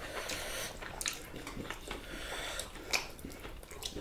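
Eating sounds: chewing and wet mouth sounds of people eating beef stew and rice with their hands, with scattered small clicks and one sharper click about three seconds in.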